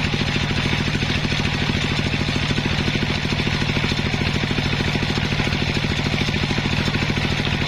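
Engine of a circular-saw sawmill running steadily with an even, rapid beat.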